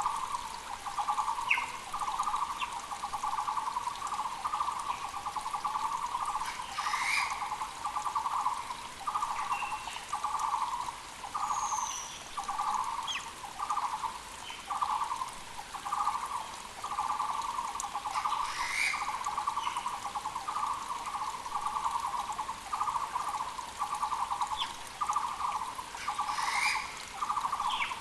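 Taiwan barbet (Muller's barbet) calling, a long unbroken series of low repeated notes a little over one a second. Other forest birds give short higher calls about a quarter, two thirds and near the end, over the steady hiss of a mountain creek.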